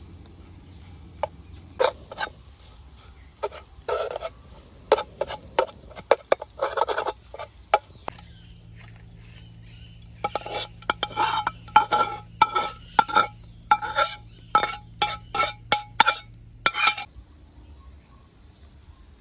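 Metal utensil clinking and scraping against a cooking pot, a string of separate sharp clinks. From about ten seconds in it turns into quick ringing taps on the pot, several a second, which stop about two seconds before the end.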